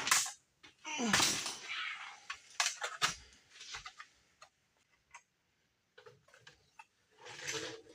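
Work noises from fitting heater parts by hand: scattered clicks and knocks, with short scraping rustles about a second in and again near the end.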